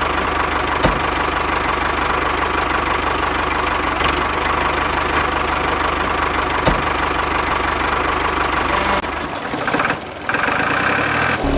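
A small engine running steadily with an even pulsing hum and a steady whine, dropping off and turning uneven about nine seconds in.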